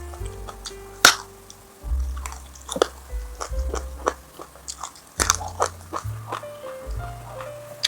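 Close-miked crunchy bites and chewing of food, a sharp crunch about a second in the loudest, over background music with held melody notes and a steady bass.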